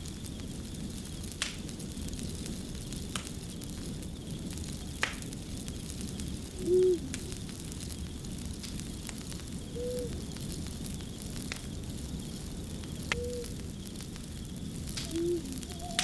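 Wood fire crackling steadily, with sharp pops every second or two. Over it come a few short, low, arched calls, the loudest about seven seconds in.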